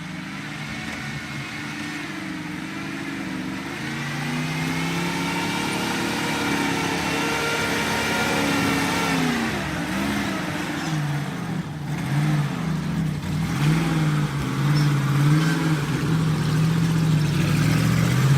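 A motor vehicle's engine under load, its pitch rising and falling again and again as it is revved, growing louder toward the end.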